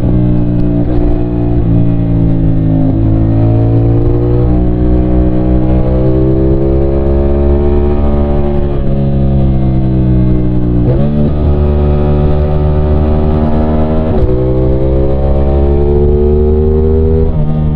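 CFMOTO 450SR's 450cc parallel-twin engine under load while riding, its note climbing steadily as the revs rise and dropping sharply at each gear change, several times through the stretch.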